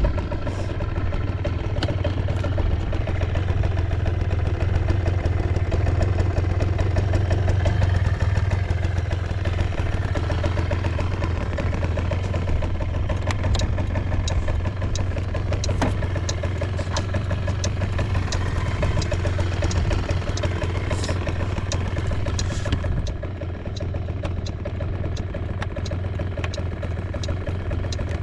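Suzuki Let's II scooter's small two-stroke single-cylinder engine, just fired up, running at a steady idle with a few sharp clicks in the middle. About 23 seconds in the idle settles slightly lower and quieter. It is a cold start with no abnormal noise.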